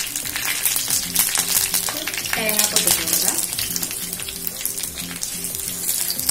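Mustard seeds, dried red chillies and curry leaves crackling and sizzling in hot oil in a non-stick frying pan. Coconut slivers go in, and a spatula stirs them near the end.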